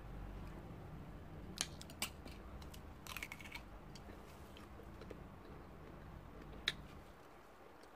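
Someone chewing crisp guava close to the microphone: a few scattered sharp crunches, a little cluster about three seconds in and the sharpest near the end, over a low rumble.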